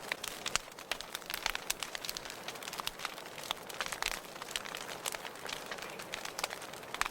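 Wood fire burning in a fireplace: a steady soft hiss with frequent irregular sharp crackles and pops.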